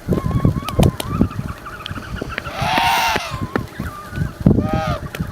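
African penguins calling, with a loud braying call a little under halfway through and a shorter one near the end, over thinner wavering calls that run throughout.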